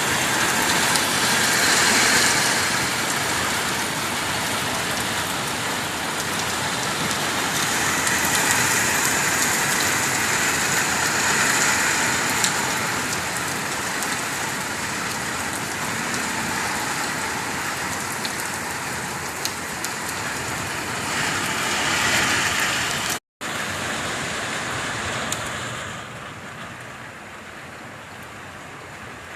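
Heavy rain pouring down in a steady hiss. It breaks off for an instant near the end and is quieter for the last few seconds.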